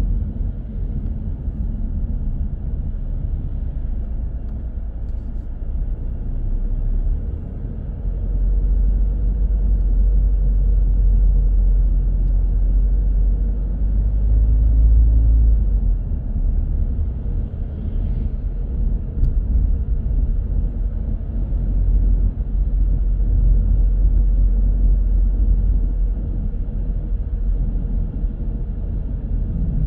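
Steady low rumble of a car driving through city streets: engine and tyre noise, growing a little louder about halfway through and then easing back.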